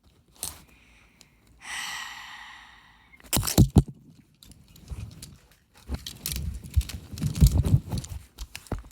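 Objects being handled and rummaged close to the microphone: a scraping hiss, a few sharp clicks about three and a half seconds in, then irregular rustling and knocking.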